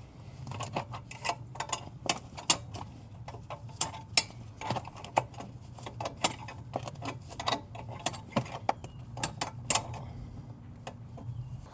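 Wrench turning out a tight bolt a bit at a time, making irregular metal clicks and clinks. A steady low hum sits underneath.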